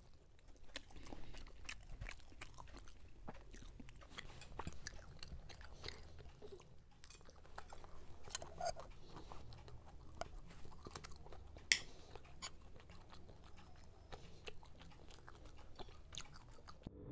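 Close-up chewing and biting of fried Mughlai paratha, with crisp crunches and small clicks of forks against plates over a low steady hum. One sharper click stands out about two-thirds of the way through.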